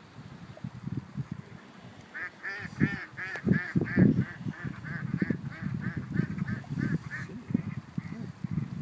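A bird calling in a quick series, about three short calls a second for some five seconds, over irregular low thumps and buffeting.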